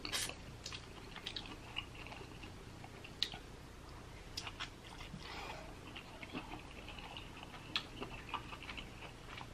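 Close-miked mouth sounds of biting and chewing sauce-coated lobster claw meat: soft wet smacks and small scattered clicks, the loudest right at the start.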